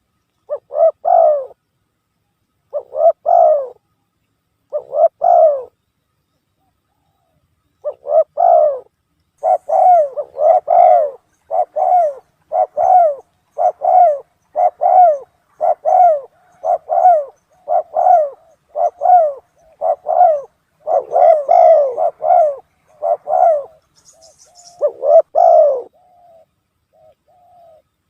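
Spotted dove cooing, played as a recorded trapping lure. It gives three coos about two seconds apart, a short pause, then a long fast run of coos about one a second, and one more coo near the end.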